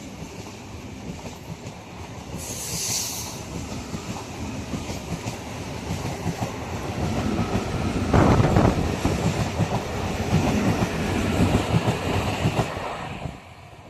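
Indian Railways train passing at speed: wheels clattering over rail joints in a steady rumble that builds to its loudest about eight seconds in, then drops away suddenly near the end.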